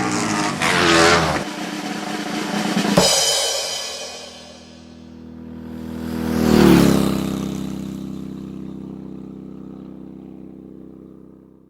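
Racing motorcycle engine revving that cuts off about a second and a half in, then a short musical sting: a drum hit about three seconds in with ringing tones that fade, a second swell near seven seconds, dying away to silence at the end.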